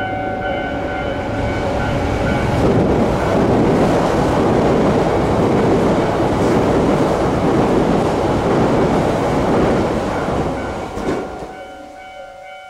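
Yamagata Shinkansen Tsubasa train passing through a station at speed inside a roofed snow shelter. A rushing roar of wheels on rail builds over the first couple of seconds, holds while the cars go by, then falls away sharply about eleven seconds in.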